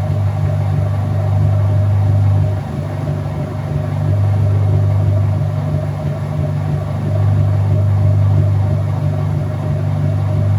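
Whirlpool top-load washing machine running: a loud, steady motor hum that swells and eases every few seconds.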